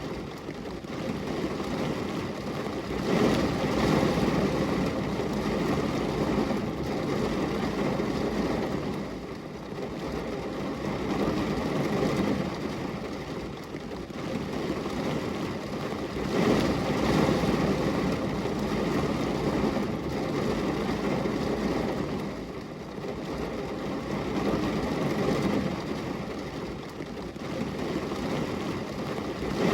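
Steady rain, a dense hiss that swells and eases every few seconds.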